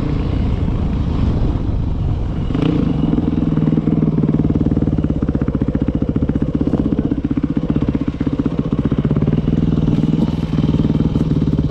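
Dirt bike engine running at a steady, even pitch, its rapid firing pulses clearly heard; the sound settles into this steady note about two and a half seconds in.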